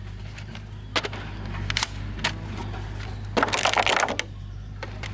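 Sharp plastic clicks and a brief rattle of a toy gun being handled: single clicks about a second and two seconds in, then a quick run of rattling clicks in the second half, over a steady low hum.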